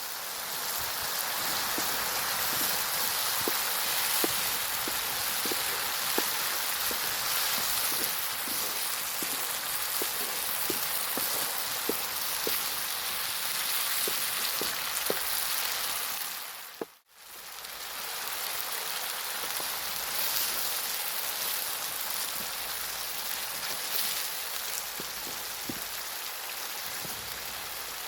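Food sizzling in a hot pan over a wood fire: a steady hiss with small pops and crackles throughout. It drops out abruptly about 17 seconds in and comes back a moment later.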